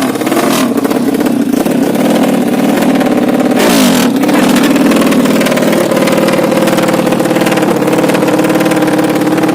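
Honda C70 motorcycle's 200cc engine, built on a Honda Karisma base, running loud and steady at raised revs, with a brief dip and rise in revs about three and a half seconds in.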